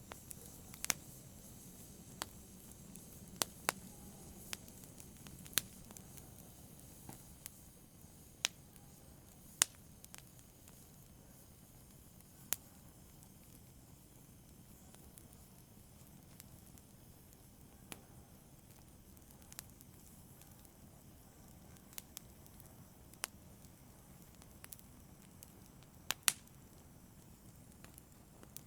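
A fire crackling, with sharp separate pops every second or two over a faint low hiss. The pops come more often in the first half.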